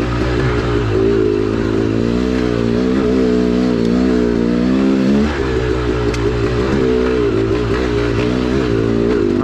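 2010 KTM 300XC-W's single-cylinder two-stroke engine running under throttle. Its pitch climbs for a few seconds, drops abruptly about five seconds in, then holds at a steady, slightly wavering pitch.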